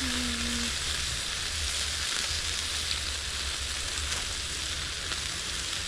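Burger patties sizzling steadily on a hot grill, with cheese melting on top.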